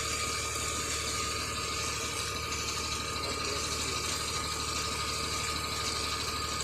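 Tipper truck's diesel engine running steadily to drive the hydraulic hoist as it slowly raises the heavily loaded body, with a steady high whine over the engine.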